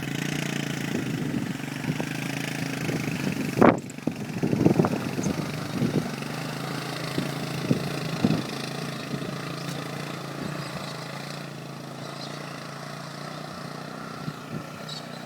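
An engine running steadily, its hum slowly fading. There is a loud thump about three and a half seconds in, followed by several smaller knocks.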